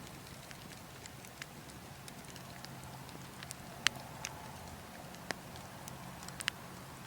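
Burning logs crackling: scattered sharp pops and snaps, the loudest about four seconds in, over a faint steady low background.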